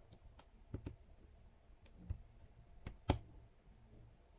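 A few scattered, isolated clicks of a computer keyboard being typed on slowly, the loudest about three seconds in.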